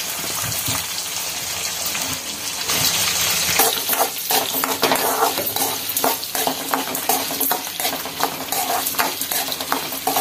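Shallots and garlic frying in hot oil in a metal kadai, sizzling steadily, while a steel ladle stirs them with frequent scrapes and knocks against the pan.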